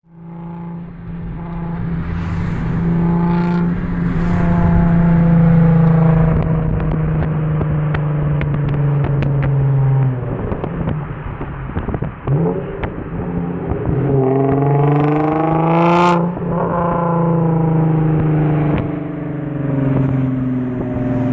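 Loud exhaust of an Infiniti G35 sedan's 3.5-litre VQ35HR V6, running through gutless cats, a 370Z Y-pipe, resonators and a muffler delete. It holds a steady drone for about ten seconds, then revs up steeply from about 14 seconds in, cuts off sharply near 16 seconds and falls back.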